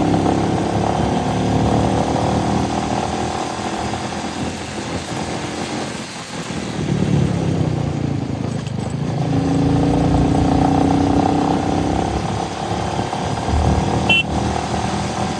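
Royal Enfield Meteor motorcycle engine running under way. Its note sags around six seconds in, then rises again and holds steady.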